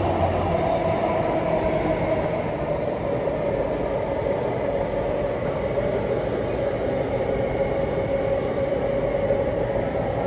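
Singapore MRT train running between stations, heard from inside the carriage: a steady rumble with a motor whine that sinks slightly in pitch.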